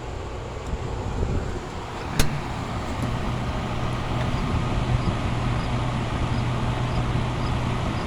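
Whirlpool 5000 BTU window air conditioner running on cool, heard from its outdoor side: a steady fan rush with a low, even compressor hum. A single sharp click about two seconds in.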